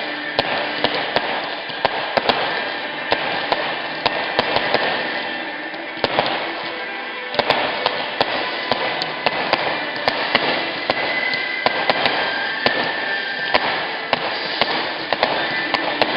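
Fireworks crackling: many sharp pops, several a second, over a steady hiss.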